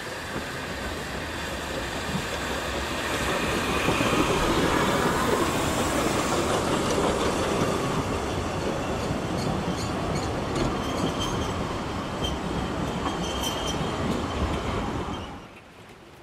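Narrow-gauge steam train, a Garratt locomotive and its coaches, rolling past close by: a rising, then steady rumble of wheels with clicks over the rail joints, loudest as the locomotive goes by. Brief high wheel squeal near the end, then the sound cuts off suddenly.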